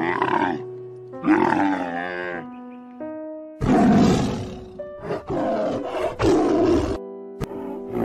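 A camel's groaning call that bends in pitch, then from about halfway a tiger roaring in several loud bursts, over background music with held notes.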